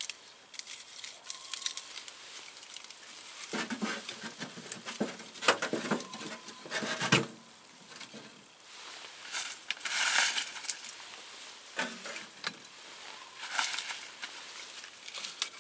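Sticks of spruce firewood and feather sticks being handled and laid into a wood stove: scattered wooden knocks and clacks, busiest a few seconds in, with short bursts of rustling and scraping later on.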